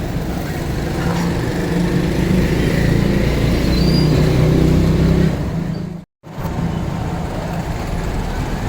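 Steady low drone of a running motor, swelling slightly in the middle, then cut off completely for a moment about six seconds in before it resumes.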